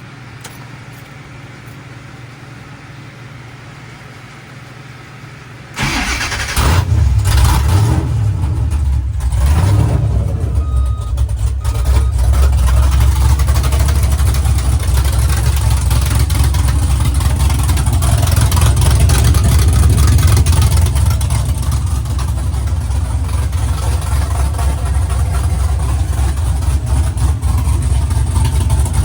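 A low steady hum, then about six seconds in the 427 V8 of a 1969 Chevrolet Camaro starts, revs up and down for a few seconds, and settles into a steady run. It runs smooth, its misfire cured by re-plugging a harness that had been on backwards.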